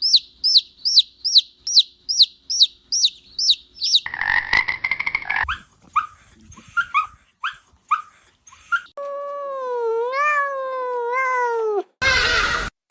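A run of animal calls: first a series of high, falling peeps, about two or three a second, then scattered short chirps, then a longer whining call with a clear pitch that wavers up and down.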